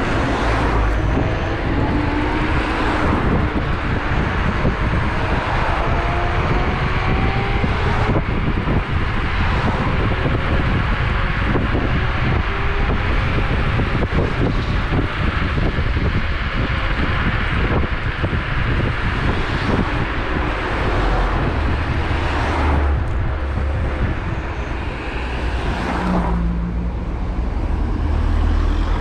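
Electric scooter ridden at speed: heavy wind and road rumble on the microphone, with the motor's whine rising slowly in pitch as it accelerates during the first stretch.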